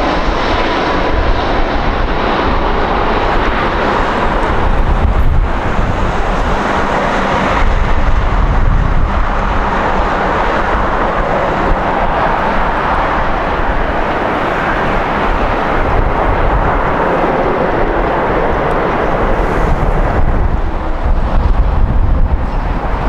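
Jet airliner engine noise, loud and continuous, with stronger low rumble about eight seconds in and again near the end.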